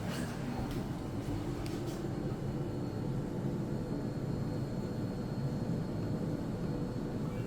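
Steady low rumble and air noise inside a ThyssenKrupp TK-50L elevator car as it travels, with a few light clicks in the first two seconds and a faint steady high whine.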